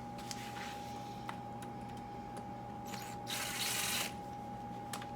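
Scattered light clicks and taps of hand tools working on a motorcycle's carburetors, with a short hiss of noise about three seconds in, over a faint steady whine.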